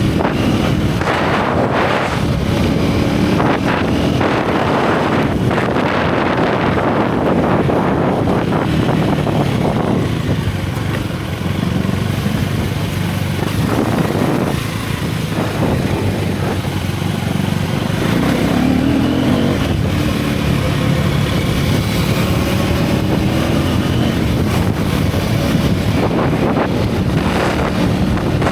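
Single-cylinder motorcycle engine and exhaust heard from the rider's seat while riding a winding road, the engine note rising and falling with throttle. It eases off briefly about a third and about halfway through, with wind buffeting the microphone throughout.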